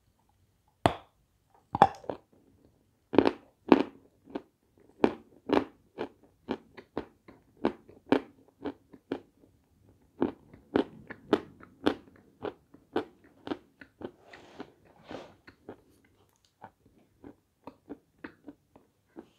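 A person biting and chewing a crunchy white Turkish sweet: two sharp bites about a second apart near the start, then a run of crisp chewing crunches about two a second that grow softer over the last few seconds.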